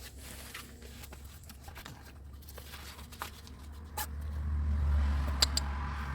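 Low rumble of a vehicle engine, swelling about four seconds in, with a few sharp clicks.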